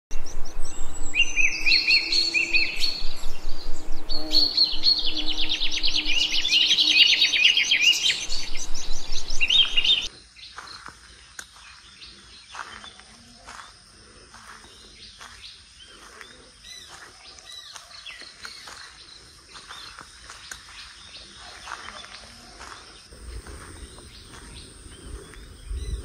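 Birds singing, with loud rapid chirps and trills for about ten seconds. The sound then drops suddenly to fainter scattered bird chirps over a steady high-pitched whine.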